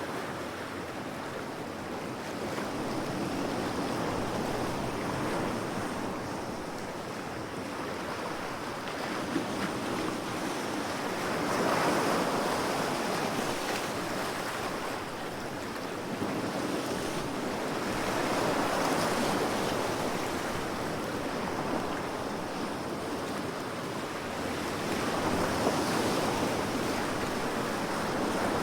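Ocean waves breaking and washing onto a shore: a steady rush of surf that swells and ebbs, with the loudest surges about every seven seconds.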